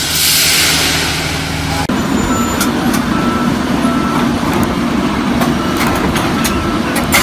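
A heavy machine's diesel engine running with a low rumble. After a cut about two seconds in, a reversing alarm beeps steadily, about once every half second.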